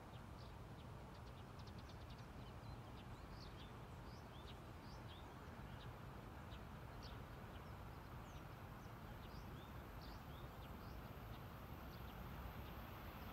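Small birds chirping in short, scattered calls over a faint low rumble of outdoor air, with a faint hum building near the end as a train approaches.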